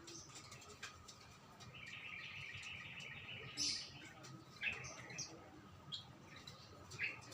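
Small songbirds chirping: a twittering trill lasting about a second and a half, then four short, sharp calls spaced about a second apart.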